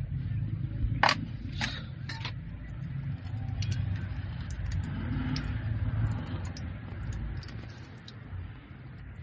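Engine running with a steady low rumble, with three sharp clicks or knocks in the first couple of seconds and lighter ticks after.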